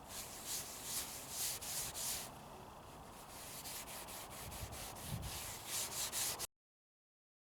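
A cleaning pad rubbed back and forth over a plastic headlight lens, a repeated scrubbing hiss of about one or two strokes a second. It cuts off suddenly near the end.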